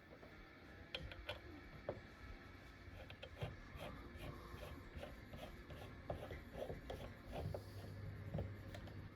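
Small clicks, ticks and light rubbing of metal tool parts being handled, some in loose runs of about two or three a second.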